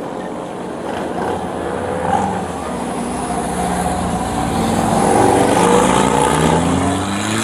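Engines of dirt bikes revving, several at once, their pitches rising and falling and getting louder toward the end with a rising rev.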